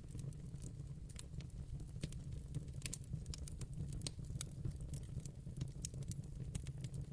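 Wood fire burning in a fireplace: a steady low rumble of the flames with many irregular sharp crackles and pops of burning logs.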